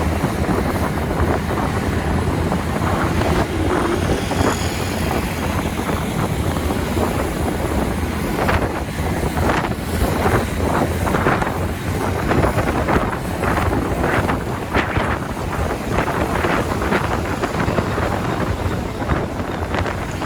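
Wind buffeting the microphone on a TVS Ntorq scooter ridden at highway speed, in gusts that come thicker about halfway through, over a steady rumble of engine and road noise.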